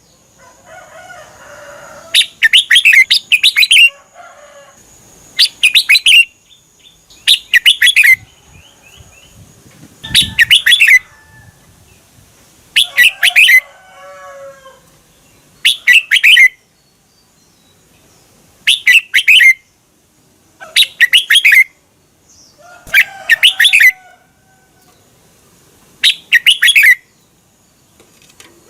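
Red-whiskered bulbul singing: about ten short, loud phrases of rapid notes, one every two to three seconds, with faint calls in between.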